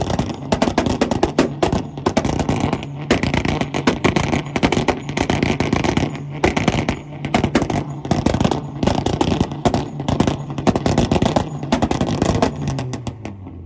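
Tuned Volkswagen engine held on a two-step launch limiter, its exhaust popping and crackling rapidly and irregularly over a steady drone at held revs. It stops about a second before the end.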